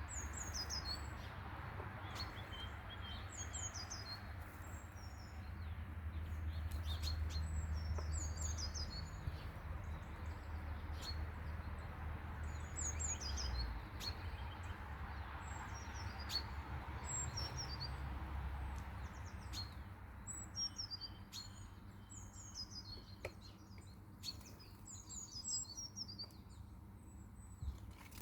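Birds calling outdoors: short high chirping phrases that slide downward, repeated every few seconds and busier near the end, with scattered sharp clicks over a low background rumble.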